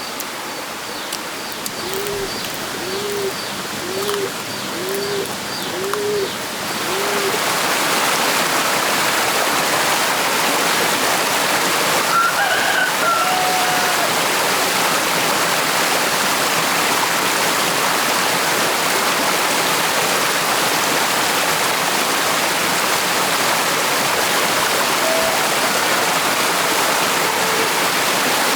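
A bird coos six times, about once a second. About seven seconds in, a loud, steady rush of water noise sets in and holds, with one short bird call partway through.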